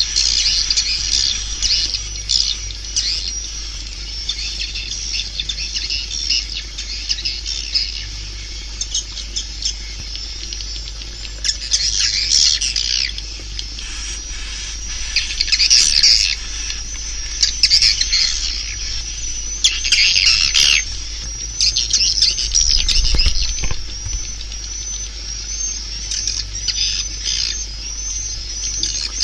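Swiftlets twittering: a dense, unbroken chatter of high chirps, with louder spells of calling every few seconds over a faint steady low hum.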